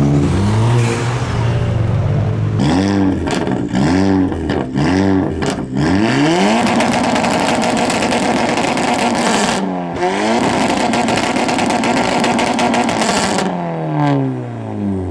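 Tuned 1.8T turbo car engine revved hard: four quick blips about three seconds in, with popping and banging cracks between them. It is then held at high revs for several seconds, dips briefly once, and falls back toward idle near the end.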